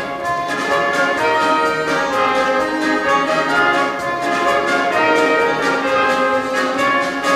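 Live orchestral accompaniment of the song playing an instrumental passage over a steady, even beat.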